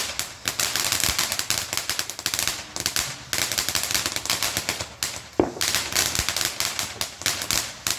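Consumer fireworks crackling: a dense, rapid run of small pops, many a second, with a few brief pauses.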